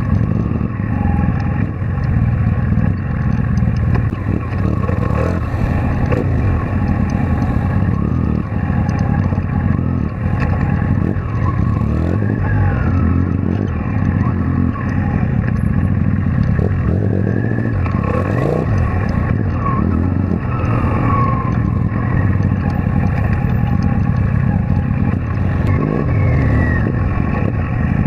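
Kawasaki Vulcan VN800 V-twin motorcycle engine running steadily at low speed while filtering between lanes of slow traffic, with small rises and falls in revs.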